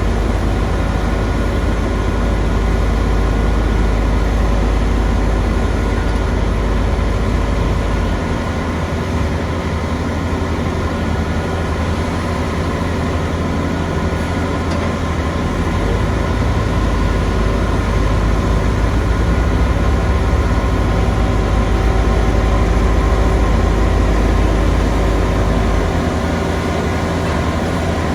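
Heavy road-construction machinery engine running steadily with a deep rumble. The lowest part of the rumble drops away about eight seconds in, returns about halfway through, and drops again near the end.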